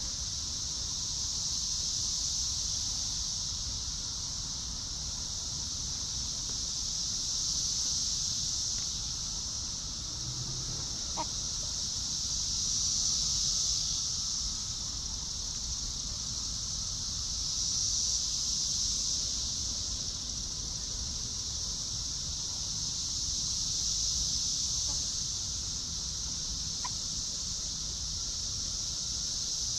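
A steady, high-pitched insect chorus that swells and eases every few seconds, with a couple of brief, faint chicken calls.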